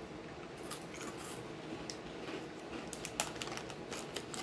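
Crunchy Cheetos snacks being chewed: a run of quick, irregular crunches.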